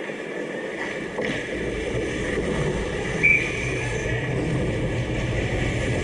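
Ice hockey game noise: a steady low rumble with a sharp knock about a second in, and a brief high-pitched tone about three seconds in.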